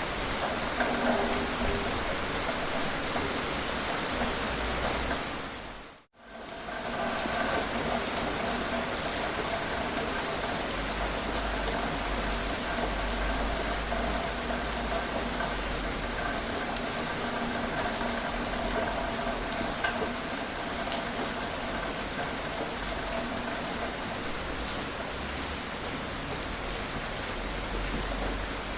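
Steady gentle rain falling, with scattered light drips. About six seconds in, the sound fades out to silence for a moment and comes straight back, like a loop point in the recording.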